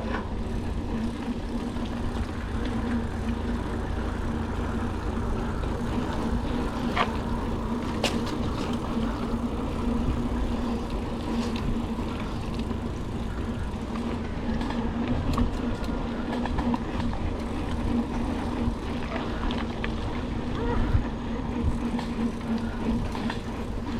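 Wind on the microphone and tyre rumble from a mountain bike riding over rough, bumpy ground, with a steady hum and scattered rattles and clicks from the bike.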